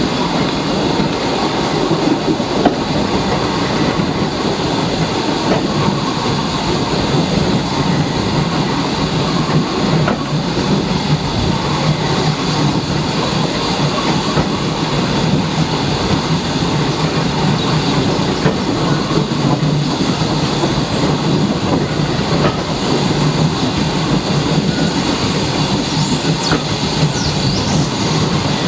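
Heritage train running along the track: a steady rolling rumble from the coach's wheels on the rails, with occasional clicks over the rail joints.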